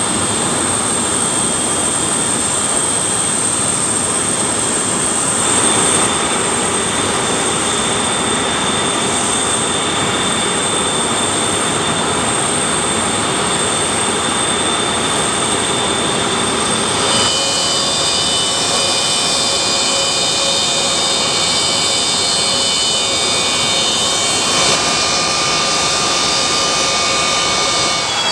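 Antonov An-124-100's D-18T turbofan engines running: loud, steady jet noise with high whining tones. The sound shifts abruptly about five seconds in, and again at about seventeen seconds, where several high whines appear together.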